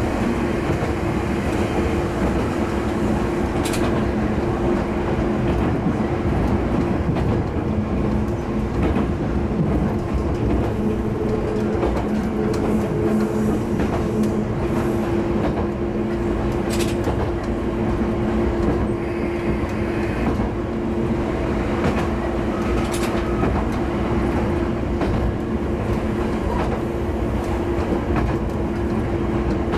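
Hitachinaka Seaside Railway diesel railcar running along the line: a steady engine and running drone with wheel rumble, and a few sharp clicks over the rails.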